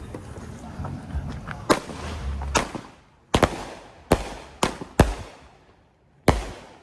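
Consumer fireworks going off just after being lit: about seven sharp bangs at uneven intervals, each with a short fading echo.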